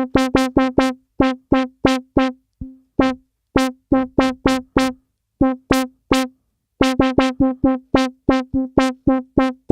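DSI Tempest analog synth voice played from the pads in about thirty short, staccato notes on the same pitch, in an uneven rhythm. Some notes are bright and others muffled, as the pad velocity opens the filter more or less.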